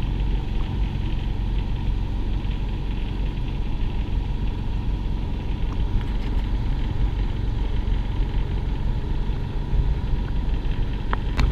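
A sailboat's inboard engine running steadily while the boat motors along, a constant low rumble.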